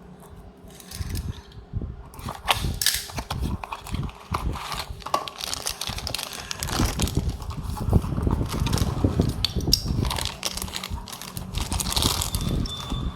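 Dense, irregular crackling and clicking of toy-car packaging being handled and opened.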